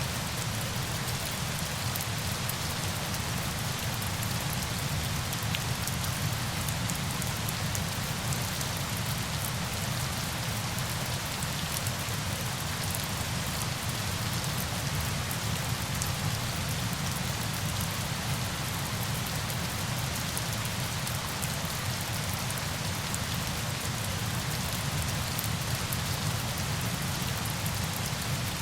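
Steady falling water: a dense, even hiss with a low rumble underneath and faint scattered drop ticks, unchanging throughout.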